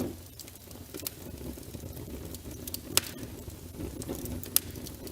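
Wood logs burning in a fireplace: a low steady rumble of flame with crackling and a few sharp pops, the loudest about three seconds in and another near the end.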